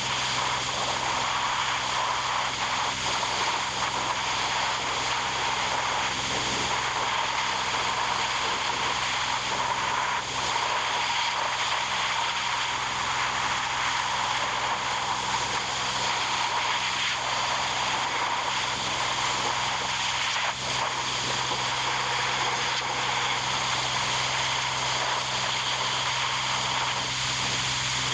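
A machine running steadily with a constant hiss and a steady low hum, unchanging throughout.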